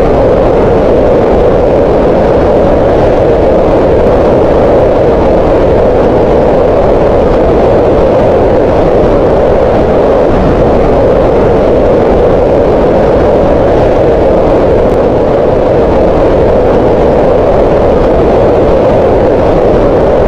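Green noise: steady synthetic noise concentrated in the middle range around 500 Hz, with no change throughout.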